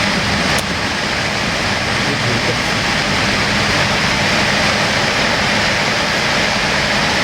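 Steady cabin noise inside a Boeing 787-8 airliner on the ground: an even rush of air from the ventilation with a low steady hum underneath.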